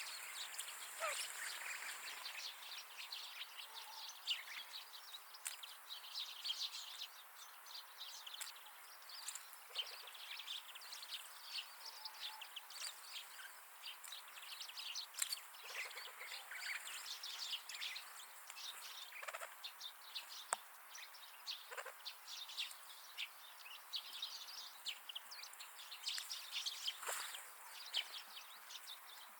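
Small wild birds chirping and twittering in many short, overlapping calls throughout, with a few louder calls that sweep downward in pitch scattered among them.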